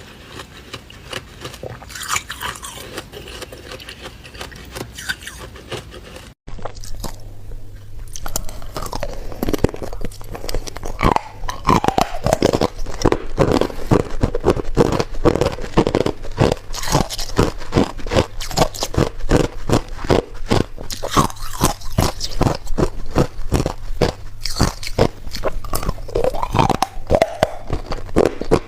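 Ice being bitten and chewed right at the microphone: rapid, irregular crunching and cracking. The sound drops out briefly about six seconds in, and after that the crunching is louder and denser.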